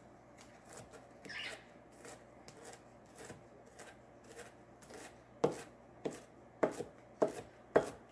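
Vegetables being chopped by hand: a run of light knocks, then louder, sharper strikes about every half second from about halfway through.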